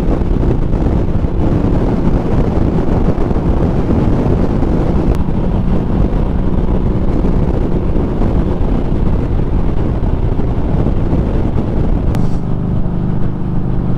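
Harley-Davidson Street Rod 750's V-twin engine running under way, with heavy wind rush on the microphone. About twelve seconds in the wind hiss drops away and the engine's steady tone comes through more clearly.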